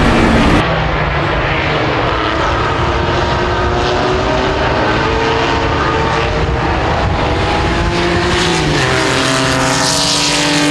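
Race car engine running hard on track, a Corvair's air-cooled flat-six, its pitch shifting with speed and dropping about eight and a half seconds in as the driver lifts or shifts.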